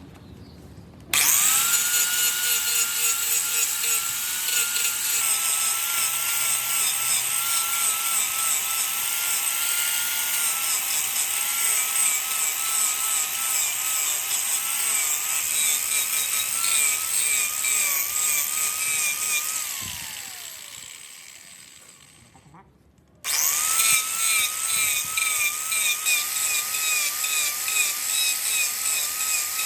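Wood lathe running with a cutting tool working the spinning wood, a steady whine under loud scraping. Near the twenty-second mark the whine falls in pitch and dies away as the lathe winds down, then the cutting starts again abruptly.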